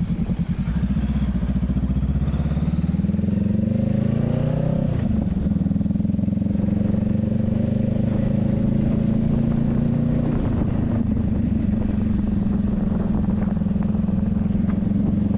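Honda Rebel 500's parallel-twin engine, fitted with a non-stock exhaust, pulling under acceleration with its pitch rising, then dropping sharply about five seconds in at a gear change, and running steadily after that.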